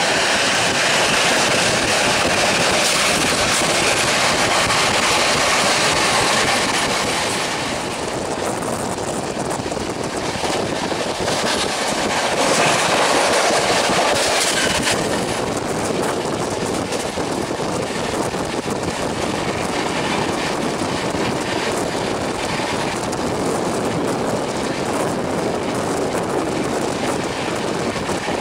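Running noise of a Rajdhani express at high speed, heard from the coach: wheels clattering over the rails with a steady rush of wind. It is somewhat louder for the first seven seconds and again briefly around the middle.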